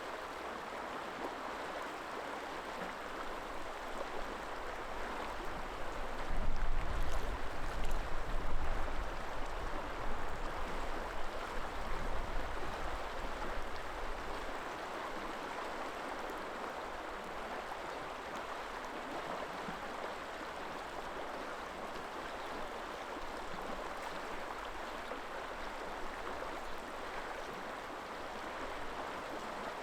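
River water flowing steadily, a continuous rushing. From about 6 to 14 seconds in, gusts of wind buffet the microphone with a low rumble, the loudest part.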